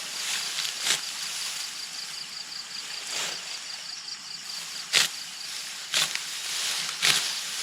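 Sharp strikes or impacts repeated every one to two seconds at an uneven pace, over a steady outdoor hiss. A faint, fast-pulsing high insect chirp runs through the first half.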